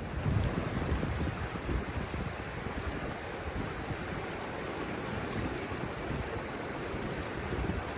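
Shallow river water rushing steadily over a stony bed, with wind buffeting the microphone in low gusts during the first couple of seconds.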